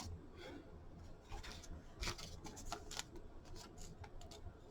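Faint rustling and light clicks of trading cards being handled and slid against one another, a few slightly sharper ones about two seconds in.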